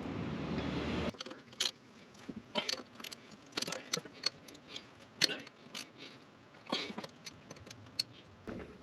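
Metal hand tools clinking and clattering in a run of irregular sharp clicks, as tools are handled and sorted. A steady low rumble underneath cuts off about a second in.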